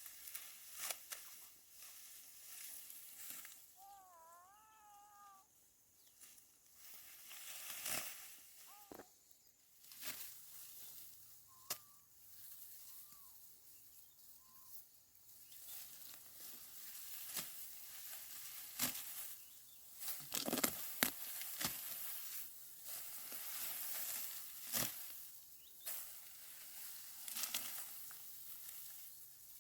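Rice stalks rustling and crunching as they are cut and gathered by hand, in irregular strokes. A few short, wavering high chirps sound about four seconds in, and a few more shortly after.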